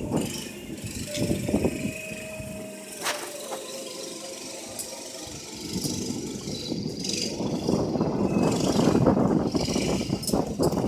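Motorcycle engine running, quieter at first with a sharp click, then growing louder about halfway through.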